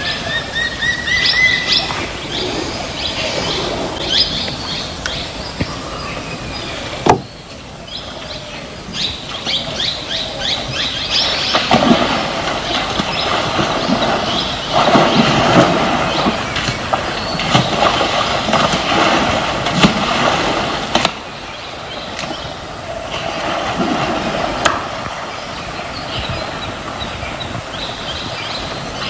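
Birds chirping in short calls over continuous outdoor noise, with louder swells of rushing noise through the middle and a thin, steady high tone throughout.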